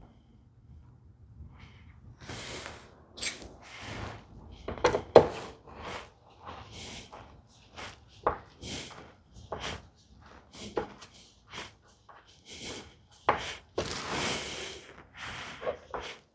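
Wood and hand tools being handled on a workbench: irregular knocks, taps and scrapes, the loudest a sharp knock about five seconds in.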